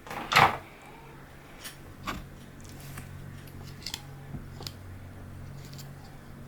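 Light clicks and taps from 3D-printed plastic parts being handled and fitted together, with one louder knock about half a second in, over a steady low hum.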